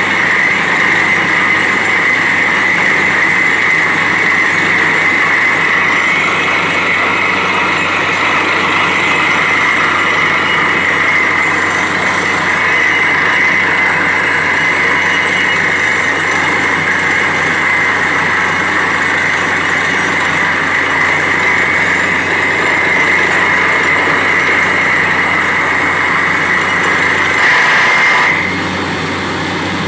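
Borewell drilling rig running steadily with a loud, continuous mechanical noise and a high, steady whine; the whine stops and the noise drops in level near the end.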